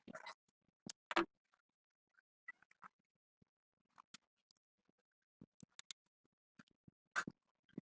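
Scattered light clicks and scrapes of tools and small parts being handled, with a sharper knock about a second in and again near the end.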